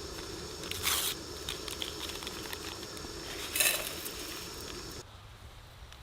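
Two short crinkling rustles with a few small clicks, over a steady low hum and a faint high steady tone that both cut off abruptly about five seconds in.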